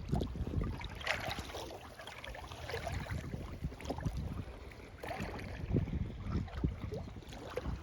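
Kayak paddle dipping and splashing in lake water, with drips and irregular swishes and a low rumble underneath.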